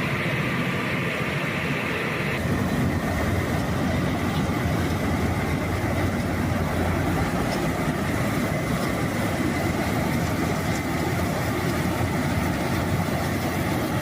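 Leyland truck's Hino diesel engine running steadily. About two seconds in a higher hiss drops away and the low running sound grows a little stronger, then holds steady.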